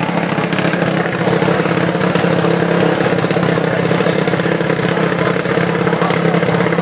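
Dirt bike engine idling steadily, not revving.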